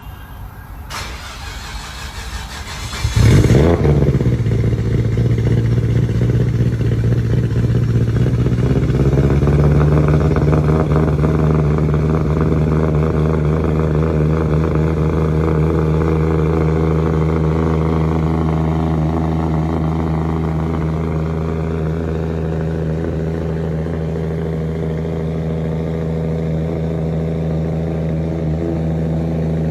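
Vehicle engine cold start: the starter cranks for about two seconds, the engine catches, then it settles into a steady idle. The idle steps up slightly about nine seconds in.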